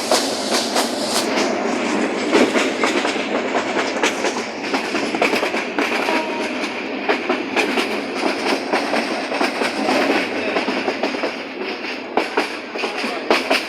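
Train running along the track, heard from aboard: a steady rumble and rattle with repeated clicks and knocks from the wheels on the rail joints.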